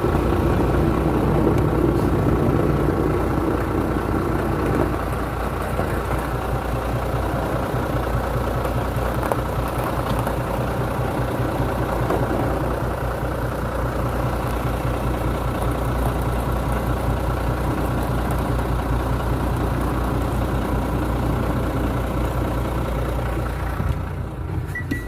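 Iveco Stralis truck's engine running steadily at low revs while parking, a low, even hum with an extra mid-pitched drone that fades out about five seconds in.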